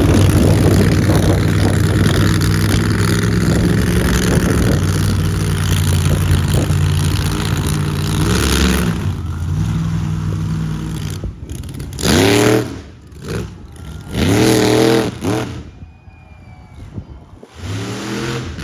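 Monster truck engine running loud and steady, then easing off and blipping the throttle in three short revs, each rising then falling in pitch.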